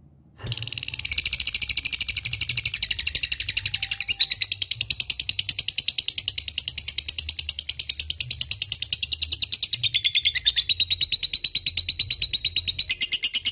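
Lovebird giving a long ngekek: a very fast, unbroken string of high chattering notes that starts about half a second in. The pitch pattern shifts about four seconds in and again near ten seconds.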